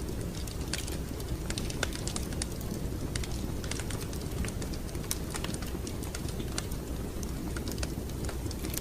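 Fireplace wood fire crackling: irregular sharp snaps and pops scattered over a steady low rumble.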